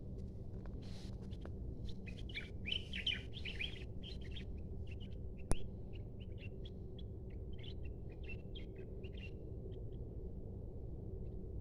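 Small birds chirping in quick, irregular flurries of short high notes, busiest from about two to nine seconds in. There is a single sharp click near the middle, over a steady low rumble.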